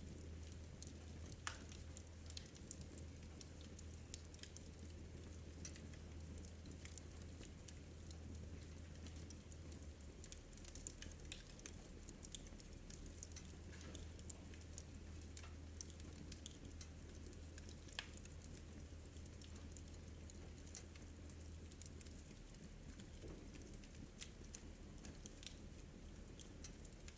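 Wood fire in a fireplace crackling softly, with irregular small pops and snaps.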